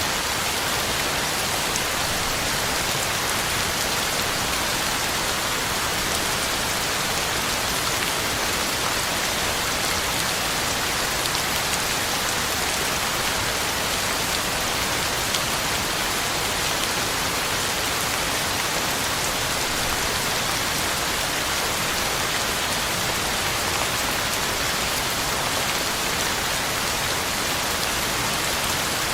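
Heavy rain falling steadily, drops hitting the ground and leaves in an even, unbroken hiss.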